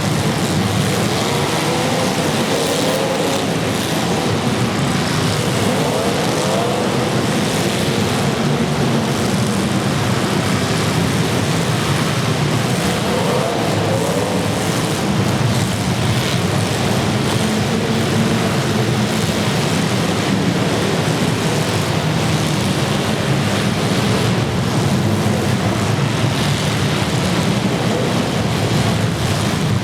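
Several demolition derby cars' engines running and revving together, a loud continuous din with wavering pitch.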